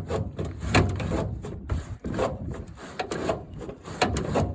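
A seized flow-control flap on a Massey Ferguson 30 seed drill being worked back and forth, a run of irregular scraping and rubbing strokes. The flap is stiff and won't close off fully.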